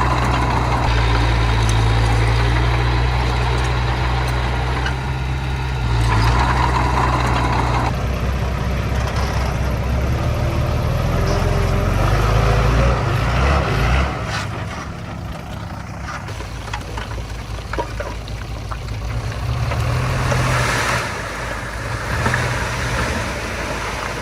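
Diesel engine of earthmoving machinery running steadily and loudly with a deep drone. The engine sound drops and turns rougher about fourteen seconds in, and there are short surges of louder noise near the start and again a few seconds before the end.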